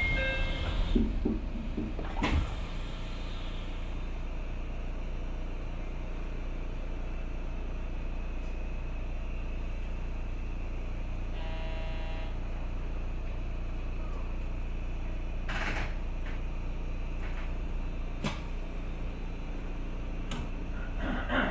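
Steady low running rumble of an electric commuter train heard from the cab, broken by a few sharp clicks and a short beeping tone about halfway through.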